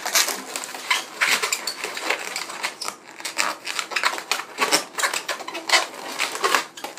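Inflated latex 260 modelling balloons squeaking and rubbing against each other as they are twisted and woven together: a dense, irregular run of short squeaks and creaks.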